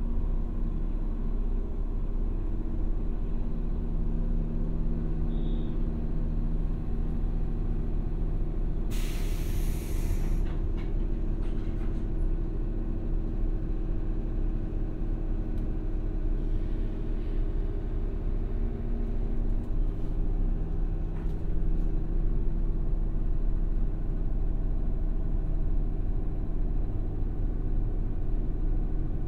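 JR 117 series electric train standing at a station, heard from inside the car: a steady hum of its onboard equipment, with a short hiss of released air about nine seconds in. Near the end the train starts to move off.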